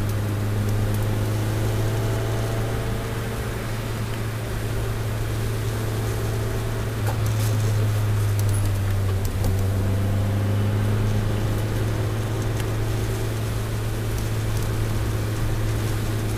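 Toyota Celica All-Trac's turbocharged four-cylinder engine pulling steadily, heard from inside the cabin as a constant drone whose pitch shifts only a little. Road noise sits underneath, with scattered small ticks.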